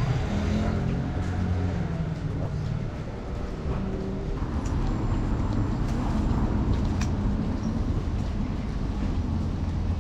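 Street traffic: a steady low vehicle engine rumble, with faint voices in the first second or so and a couple of light clicks.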